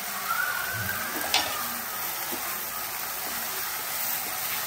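Shredded cabbage and peppers sizzling in hot oil in a non-stick wok while being stirred with a spatula, with one sharp click about a second and a half in.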